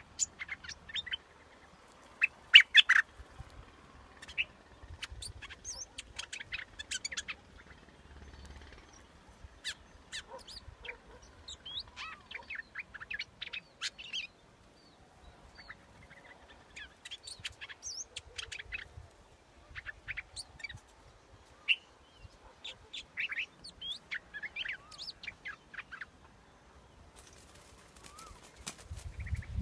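Bulbul calling in a decoy-call recording: phrases of quick, sharp chirps and whistled notes repeated with short pauses. A brief rushing noise comes near the end.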